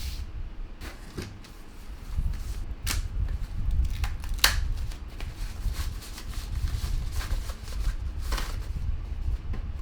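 Packaging being handled during an unboxing: irregular rustles, scrapes and light clicks, the sharpest about halfway through.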